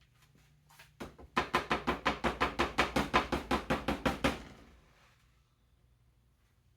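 A rapid, even run of sharp clicks or taps, about eight a second, lasting some three seconds and then stopping, over a low steady hum.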